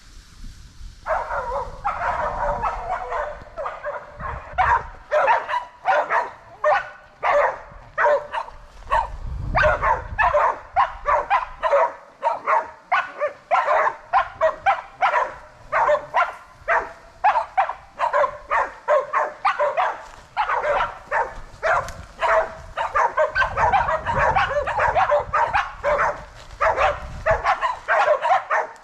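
Pig-hunting bailing dogs barking rapidly and without pause, about two to three barks a second, starting about a second in.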